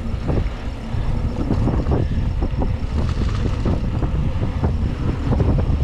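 Mountain bike rolling fast over a rough, bumpy trail: a steady low rumble of tyres and air with frequent sharp knocks and rattles, several a second, as the bike hits bumps.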